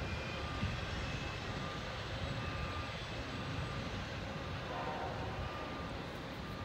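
Steady rumble of a freight train rolling past on the rails. A faint distant train horn sounds briefly about five seconds in.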